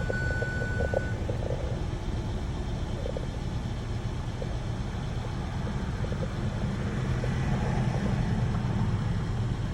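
Kia car's newly replaced engine running with a steady low rumble that grows a little louder near the end. A thin, steady beep tone sounds and stops about a second in.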